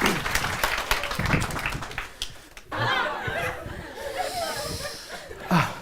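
Audience applause fading out over the first two seconds or so, then after a sudden break, scattered audience laughter.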